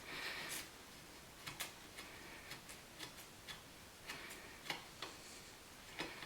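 Faint, irregular metal clicks and ticks from a wrench turning the wiper arm's pivot nut off its stud.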